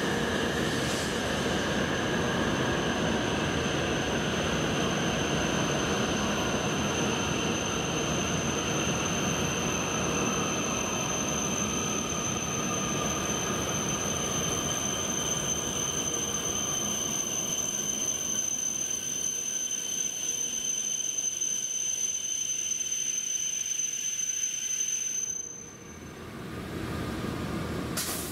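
Hokuriku Shinkansen E7 series train running through the station: a steady rumble with high steady whines over it, which breaks off abruptly near the end.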